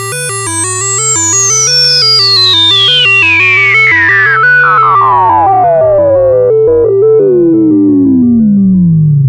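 Arturia Brute-series analog synthesizer playing a stepping sequencer pattern over a repeating bass line, raw with no effects. A single pitched tone sweeps steadily downward the whole time, from very high to low.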